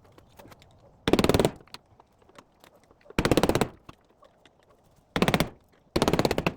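Impact driver hammering in four short bursts of rapid clicks, each about half a second long, as screws are driven.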